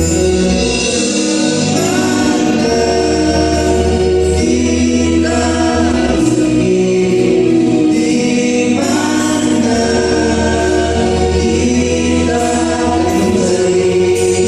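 A band plays a song with group singing over held chords, a steady bass line and cymbals. The chords change every few seconds.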